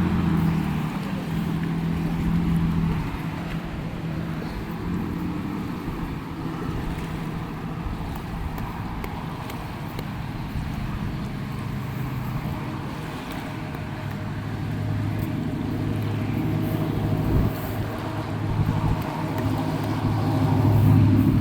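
Steady low engine hum over outdoor background noise, growing somewhat louder in the last few seconds.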